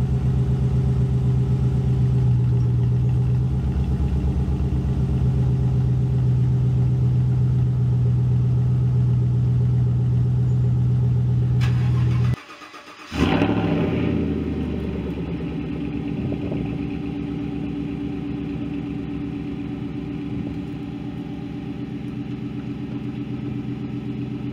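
Chevy truck V8 idling through a stainless Borla S-type cat-back exhaust with a steady low burble. A little past halfway the sound drops out briefly, then the engine starts again with a flare of revs that settles back to a quieter idle.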